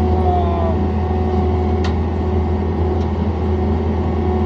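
John Deere 317 skid loader's engine running at a steady speed, with a single sharp click about two seconds in.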